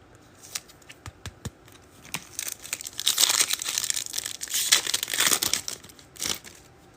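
A plastic trading-card pack wrapper being torn open and crinkled by hand. It starts with a few light clicks of handling, then a burst of crinkling and tearing from about two seconds in that stops shortly before the end.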